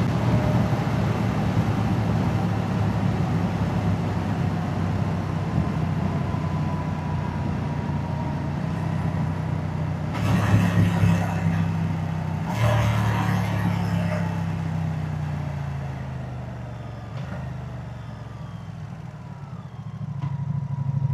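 Moto Guzzi V-twin motorcycle engine and exhaust running under way, with two sudden throttle surges around the middle, then the engine note sliding slowly down as the bike rolls off and slows, picking up again near the end.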